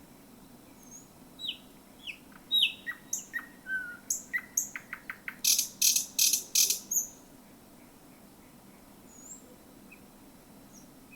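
Thrush nightingale singing one song phrase. It gives a few sharp down-slurred whistles, then a quick run of clicks, then loud harsh rattling notes, and stops about seven seconds in. Only a few faint notes follow.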